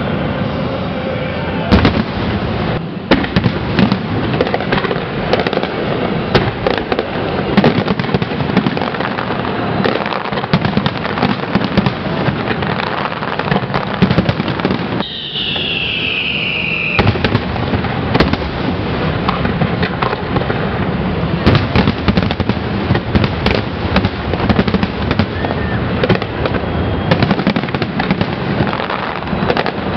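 Aerial fireworks display: a dense, continuous crackle of many sharp shell reports, with a brief falling whistle about halfway through.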